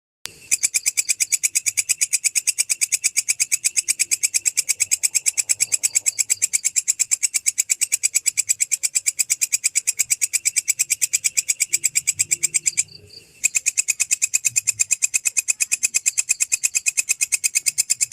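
A singing insect stridulating in a fast, even train of sharp chirps, several a second. It breaks off for about half a second a little past the middle, then resumes.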